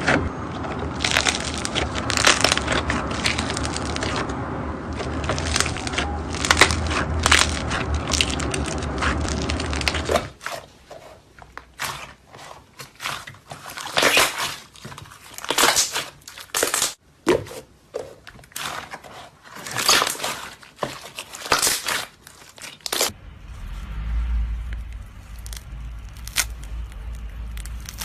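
Slime being squeezed and worked by hand, making crunchy crackling sounds. From about ten seconds in the dense crackle gives way to separate sharp pops and clicks. The last few seconds hold only a low hum with faint sounds.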